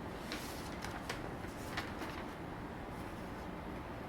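Room tone: a steady low hum with a few faint clicks scattered through it.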